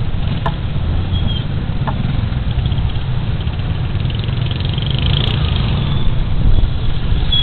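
Suzuki Burgman Street 125 scooter riding, its engine and a steady low wind rumble picked up by a body camera's microphone.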